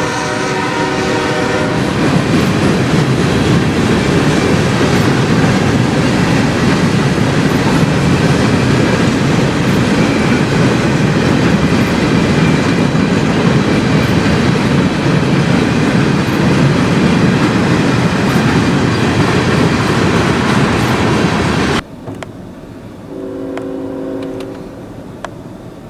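Locomotive air horn chord sounding, stopping about two seconds in, then a train rolling past close by with loud, steady wheel-on-rail noise. Near the end the train noise cuts off suddenly, and a fainter, lower horn blast sounds briefly.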